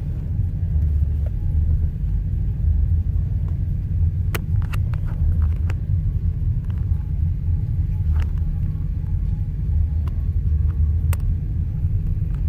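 Steady low vehicle rumble, with a few short sharp clicks or pops about four, eight and eleven seconds in.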